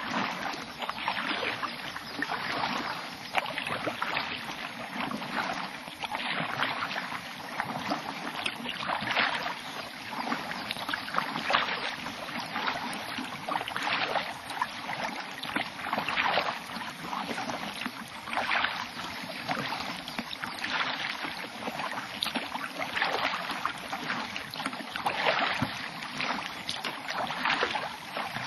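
Kayak paddle strokes in calm lake water, a splash and wash of water with each stroke, about one stroke a second in a steady rhythm.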